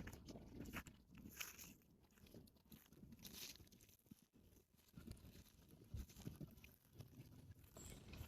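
Near silence, with faint scattered rustles and clicks.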